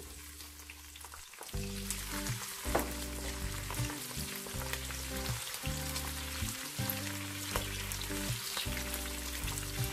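Garlic, shallots, scallion whites and coriander stems sizzling and crackling in hot oil in a frying pan as they fry to make scallion oil. Background music comes in about a second and a half in.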